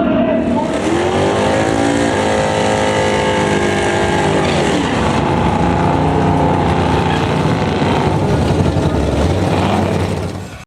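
Drag-racing muscle car engine revving hard: its pitch climbs over the first couple of seconds, drops about five seconds in, then holds steady before fading out at the very end.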